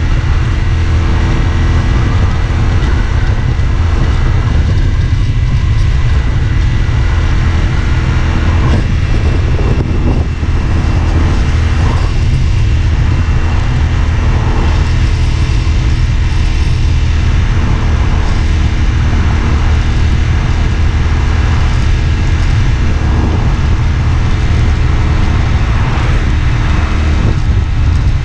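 CFMoto 450SR S parallel-twin engine running at fairly steady revs while the motorcycle is ridden.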